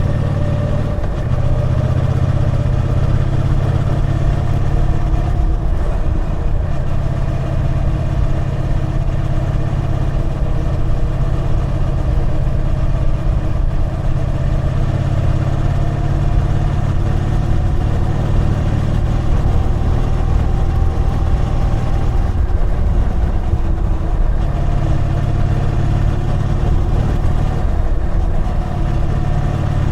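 Triumph Bonneville T120 parallel-twin motorcycle engine running under way, its pitch rising and falling as the throttle is worked, with a few brief easings off.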